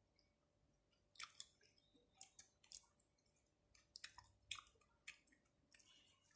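Close-miked wet, sticky chewing and mouth clicks from eating raw shrimp and octopus: quiet, irregular smacks and clicks starting about a second in.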